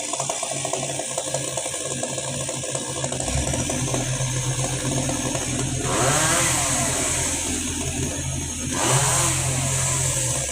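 Chainsaw engine running, revving up briefly twice, about six seconds in and again near the end.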